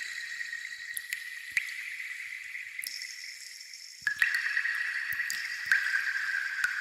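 Raindrops dripping: scattered single drop ticks over a steady high, ringing water sound that shifts pitch and gets louder about four seconds in.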